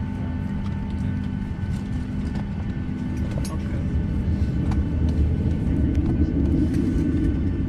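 Boeing 737 jet engines running with a steady low rumble and a few steady hums, growing louder in the last couple of seconds, with scattered light ticks.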